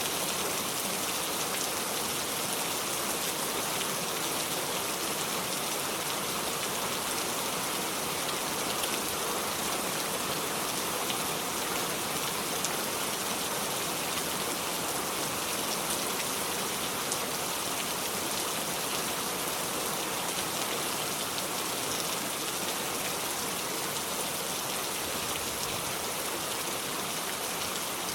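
Steady rain falling, a constant hiss of drops hitting a surface with fine patter throughout and no thunder.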